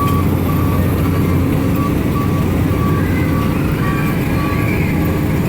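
Carnival train ride running, with a steady low engine rumble and a short high beep repeating about twice a second.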